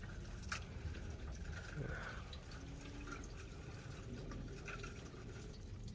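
Faint, scattered drips of water over a low, steady background hiss.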